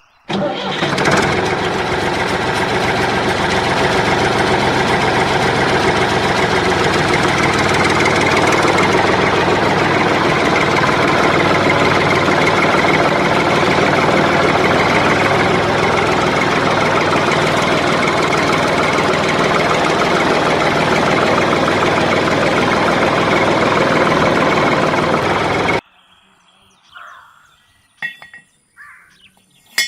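A motor running steadily and loudly, which cuts off abruptly about 26 seconds in; a few faint short knocks follow.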